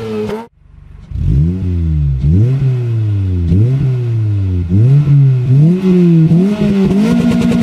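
Toyota Corolla hatchback engine revved at the tailpipes in a series of quick blips, about one a second, each rising and dropping back, then held at a steadier higher speed near the end. In the first half second, the tail of a Mazda RX-8's rotary engine rev cuts off abruptly.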